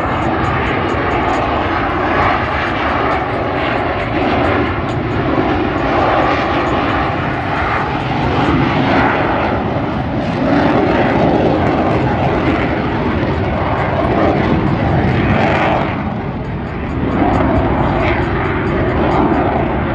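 Jet engines of two Boeing F/A-18 Super Hornets roaring steadily as they fly a slow, nose-high high-angle-of-attack pass. The sound dips briefly about three-quarters of the way through, then swells again.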